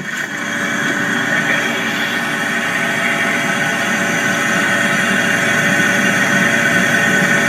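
Three-door commercial glass-door fridge's refrigeration unit running, heard from behind the cabinet as a steady mechanical hum that grows louder over about the first second and then holds.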